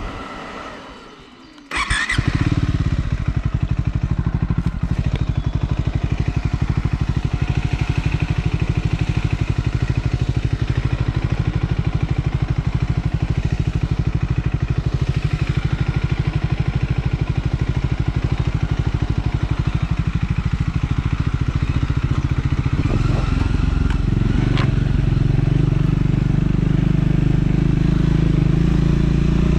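Triumph Scrambler 400 X single-cylinder engine running steadily while riding. The sound is subdued for the first two seconds, then comes in abruptly with a sharp click. About two-thirds of the way through it gets louder and deeper as more throttle is opened.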